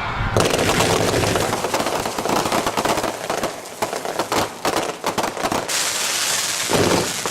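Consumer fireworks going off: a sudden burst just after the start, then rapid crackling pops with a stretch of hissing near the end.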